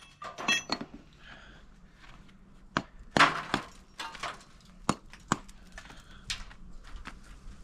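Bricklaying work: a steel trowel knocking and scraping on bricks and mortar, about nine sharp separate taps, the loudest a little over three seconds in.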